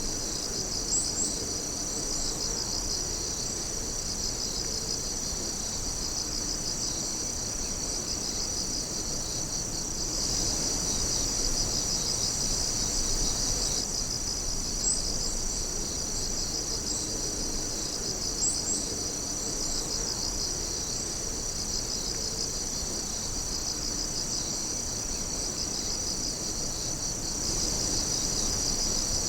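A chorus of night insects calling together: several steady, overlapping high trills with a pulsing trill beneath them, and a few brief higher chirps standing out now and then.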